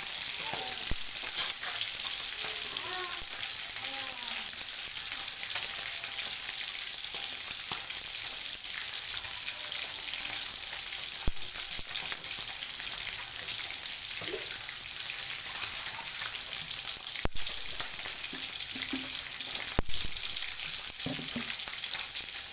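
Fish frying in hot oil in a pan: a steady sizzle with a few sharp pops scattered through it.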